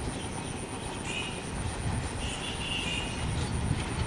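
Freight train of empty BOXN wagons rolling past with a steady, uneven rumble and clatter. Brief high squeals come about a second in and again around two to three seconds.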